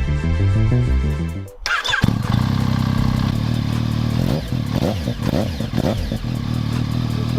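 Background music with a beat for about a second and a half, then a 2014 Yamaha FZ-09's three-cylinder engine starts up, cold after winter storage, and settles into a steady idle with a few quick throttle blips in the middle.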